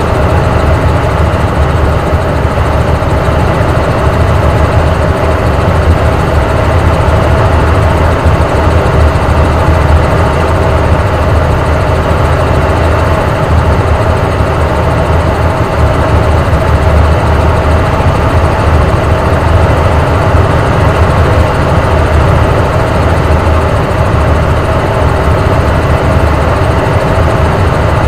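Helicopter in steady flight: constant rotor and engine noise with a strong low rumble and a few steady tones above it.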